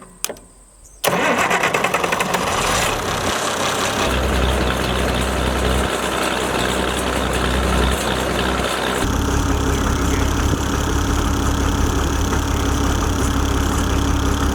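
Oliver farm tractor engine starting about a second in, then running steadily; its note shifts a little past halfway.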